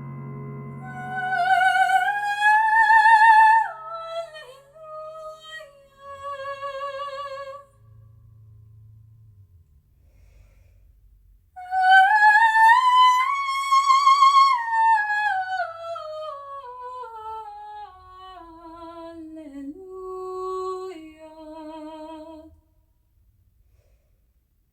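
A piano chord dies away, then an unaccompanied operatic voice with wide vibrato sings long high phrases, one climbing to a peak and then descending step by step to a low held note. It stops shortly before the end.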